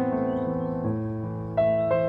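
Soft piano music: sustained notes and chords, with new ones struck about a second in and again near the end.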